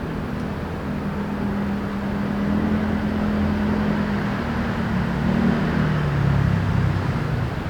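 City traffic noise with a motor vehicle's engine drone passing close by, swelling in the middle and dropping slightly in pitch near the end.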